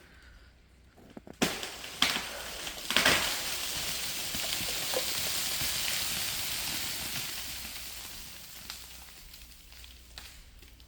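Ice-laden tree breaking and falling in the woods. Three sharp cracks about a second apart are followed by a long rushing, crackling crash of ice-coated branches shattering. The crash fades away over several seconds.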